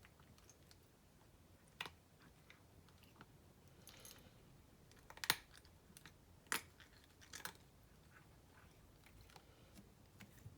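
A cat crunching dry kibble: faint, irregular crunches, with a few sharper ones spread out and the loudest about five seconds in.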